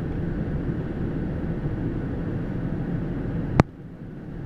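Slow-moving double-stacked container freight train rolling past with a steady low rumble. One sharp clank about three and a half seconds in, after which the rumble is quieter.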